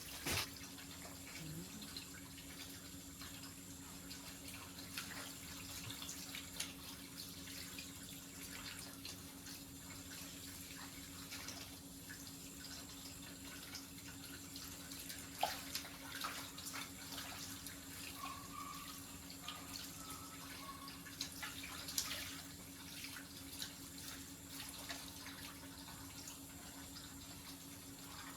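Faint running water, with a steady low hum and scattered light clicks and knocks.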